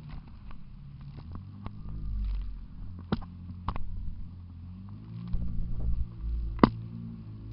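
Jet ski engine running, its pitch rising and falling in the second half, with several sharp knocks over it, the loudest near the end.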